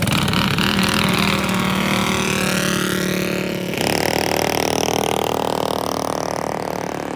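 Small minibike engines at full throttle during a drag run, the pitch climbing for the first few seconds. About four seconds in a louder, steady engine note takes over, then fades near the end.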